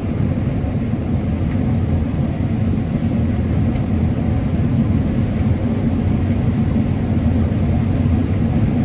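Combine harvester running steadily while harvesting corn: an even, low rumble with a faint steady hum.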